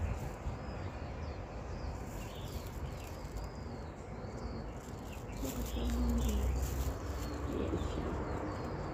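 Small birds chirping, with short curved high notes repeating over and over, over a low rumble that swells about six seconds in.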